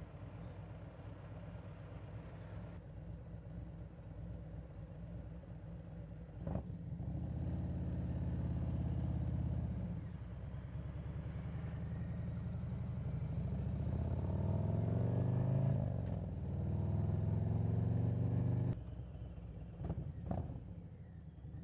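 Harley-Davidson Road Glide V-twin engine at a low, pulsing rumble, then pulling away: the revs climb and hold, dip at a gear change, climb again, and drop suddenly back to a low rumble when the throttle closes. A couple of sharp clicks near the end.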